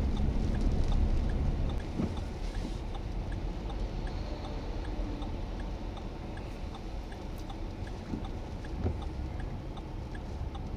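Storm wind rumbling on the microphone with scattered light ticks, easing a little about two seconds in.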